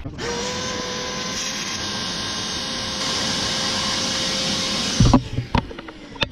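Shop vacuum switched on, running steadily with a hum and a whine, getting a little louder about three seconds in, then switched off about five seconds in, its motor winding down in a falling tone.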